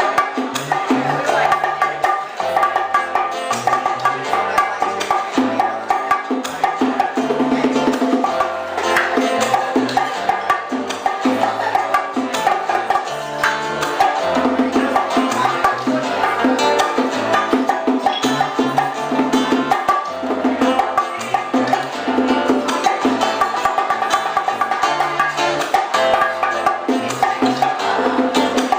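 Live old-school Cuban band music: a bass line stepping through short notes under busy hand percussion, with clave-like wood-block clicks keeping the rhythm.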